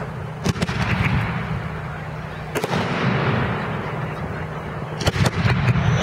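Fireworks shells exploding at a public display: sharp bangs about half a second in, again near 2.5 s and a quick cluster near the end, over a continuous rumble of echoing booms.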